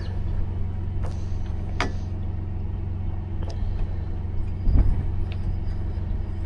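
Truck engine idling with a steady low hum, with a few light knocks and a heavier thump about five seconds in.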